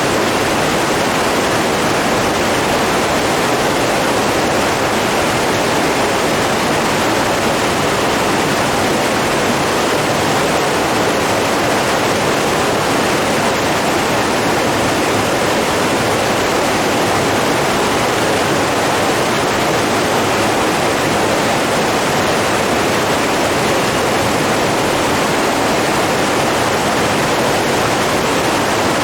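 Rushing water running steadily, an even noise with no pauses or changes.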